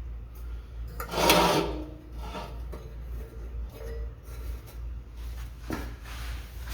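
A loud scrape about a second in, then lighter rubbing and knocking, over a steady low hum: handling noise from work under the car, just after the stock muffler has come off.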